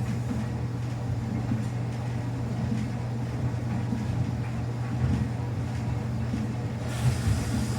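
Samsung washing machine running its wash cycle with a load of towels: a steady low motor hum under irregular low churning from the turning drum.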